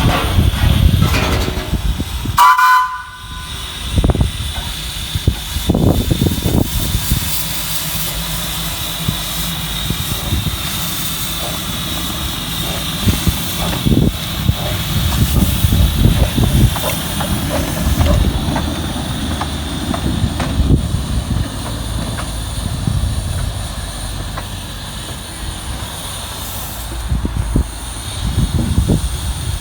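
Train running past with a continuous, uneven low rumble. A short pitched whistle sounds about three seconds in.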